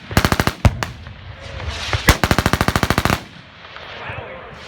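Automatic gunfire in bursts of rapid, evenly spaced shots, roughly fifteen a second: a short burst at the start, a longer one of about a second in the middle, and another beginning at the end, with echo trailing between bursts.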